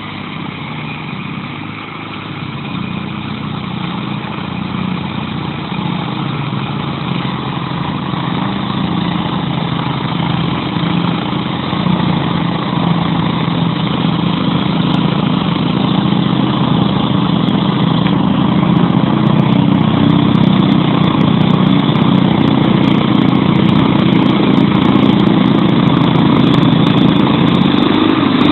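Opposed-twin 16 hp Briggs & Stratton engine of a 1982 Sears Craftsman GT/V lawn tractor running steadily, growing gradually louder.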